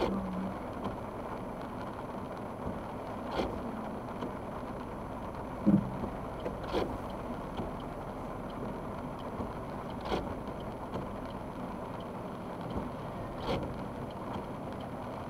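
Steady road and tyre noise inside a moving car on a wet road, with a faint knock repeating about every three and a half seconds and one short louder sound about six seconds in.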